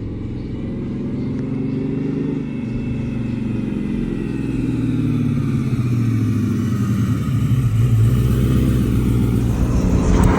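Car engine and exhaust running, the note gliding up and down in pitch and growing steadily louder toward the end.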